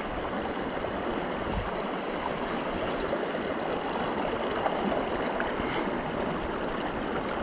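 Steady rush of flowing river water, running high after floods.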